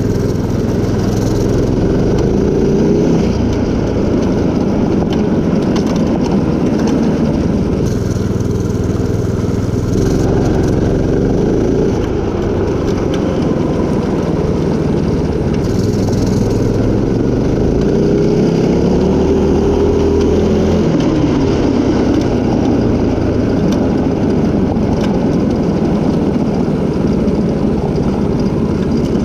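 Mini bike's small gas engine running on a test ride. Its pitch rises and falls several times as the throttle is opened and eased off.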